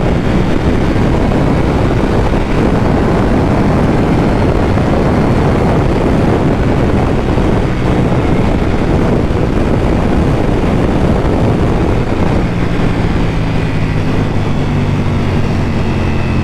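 Ducati V4 superbike at high speed: heavy wind rush mixed with the engine. About twelve seconds in, the engine's note comes through steady and clear.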